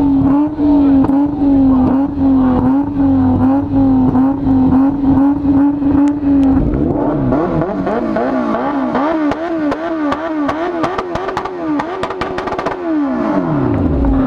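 An engine held at steady high revs, then revved up and down repeatedly with sharp exhaust pops and crackles. Near the end the revs fall steeply away.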